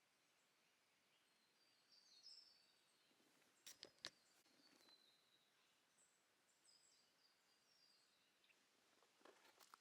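Near silence in the bush, with faint scattered bird chirps and a few soft clicks, a cluster about four seconds in and another near the end.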